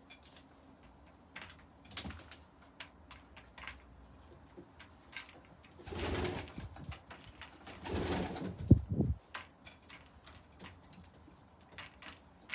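Pigeons cooing in a loft, with scattered light taps. There are two louder rustling bursts about six and eight seconds in, the second ending in a sharp knock.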